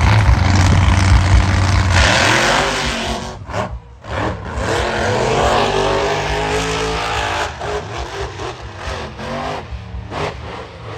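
Monster truck engines at full throttle during a drag race. The engine note drops briefly about three and a half seconds in, then the revs climb again and rise and fall to the end.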